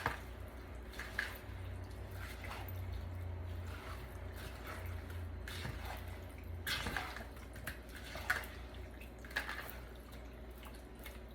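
Scattered soft wet clicks and drips as raw chicken pieces are handled in a bowl of liquid marinade, over a low steady hum.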